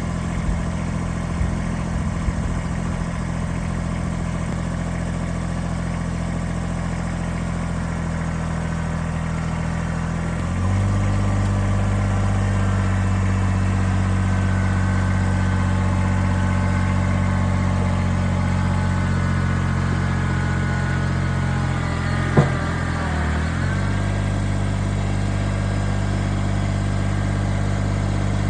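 Tractor engine running steadily, then stepping up to a higher speed and a little louder about a third of the way through. Later it briefly drops in speed and picks back up, with a single sharp knock at about the same moment.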